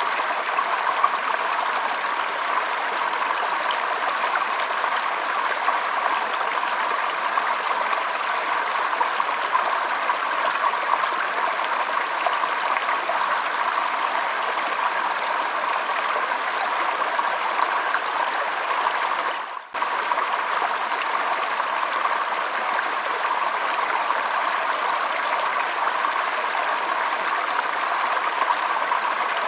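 Shallow stream flowing and trickling steadily. The sound dips out for a split second about two-thirds of the way through, then comes straight back.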